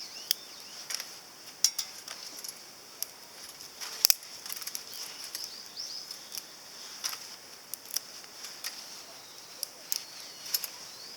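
Small wood fire in a compact titanium fire grill, crackling with irregular sharp pops over a steady high hiss.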